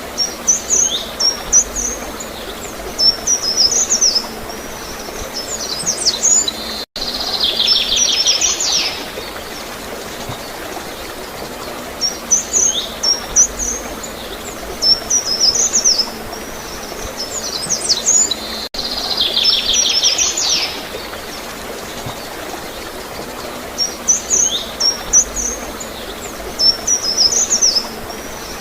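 Songbirds singing in repeated bursts of high chirping phrases over a steady hiss of flowing water. The recording loops about every twelve seconds, with a brief dropout at each restart.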